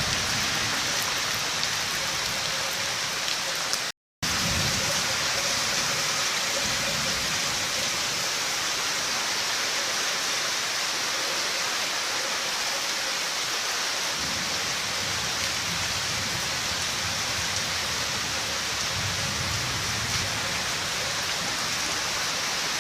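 Steady heavy rain falling, an even hiss with low rumbles coming and going underneath. The sound cuts out to silence for a split second about four seconds in, then resumes.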